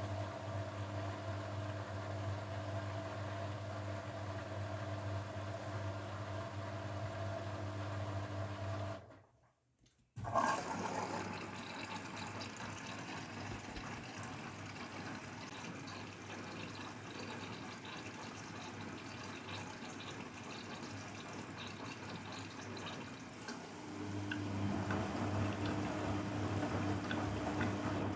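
Grundig washing machine mid-cycle: a steady pump hum cuts out about nine seconds in, followed by a moment of silence and then water rushing through the machine. The hum comes back, louder, near the end.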